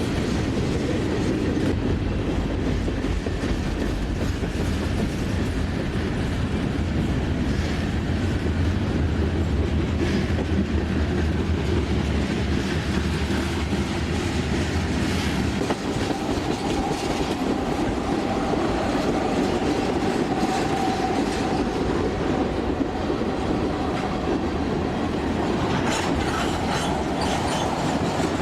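A train rolling past, its wheels clicking over the rail joints. A heavy low rumble drops away about halfway through, after which a faint steady squeal from the wheels is heard.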